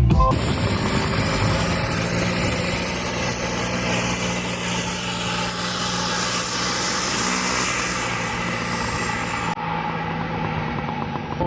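Vanagon Syncro's twin-turbo TDI diesel engine running steadily, with a low hum and a broad wash of road and wind noise.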